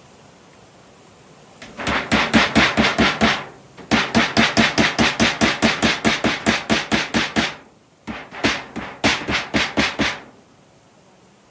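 Rapid chopping strokes, about five or six a second, in three runs separated by short pauses; the longest run is in the middle.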